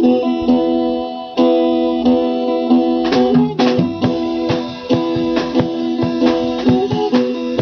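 Acoustic guitars strumming chords in an instrumental passage of a live song, with regular strokes and a short break in the rhythm a little over a second in.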